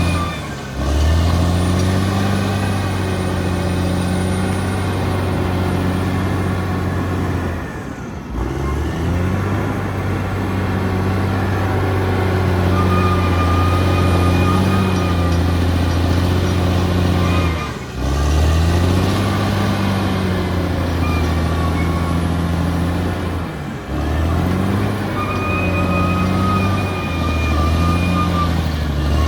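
Bulldozer's diesel engine working under load, its pitch rising and falling. The sound dips briefly a few times, and a thin high whine comes and goes over it.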